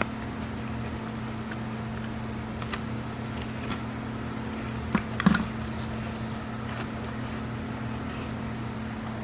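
Scattered light crunches and clicks from biting and chewing a chocolate-filled Milano cookie, with a louder cluster about five seconds in, over a steady low hum.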